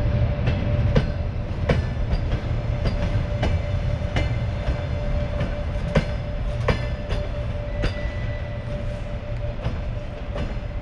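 Passenger train coaches rolling past, their wheels clicking irregularly over rail joints over a steady low rumble and a thin steady whine. The sound eases slightly as the last coach moves away.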